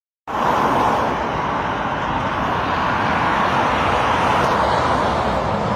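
Steady noise of motor vehicles, engines and road noise together, starting abruptly.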